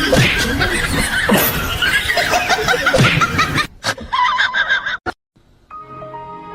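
People laughing over a busy, noisy scene with several falling cries. It cuts off abruptly just under four seconds in, and after a brief silence soft background music starts near the end.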